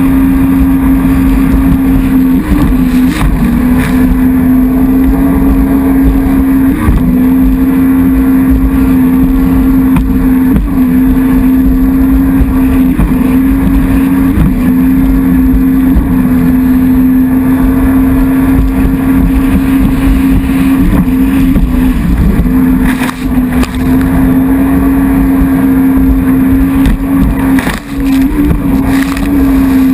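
Jet ski engine running at high, steady revs, its pitch dipping briefly now and then as the throttle eases or the hull skips, with water and wind noise underneath.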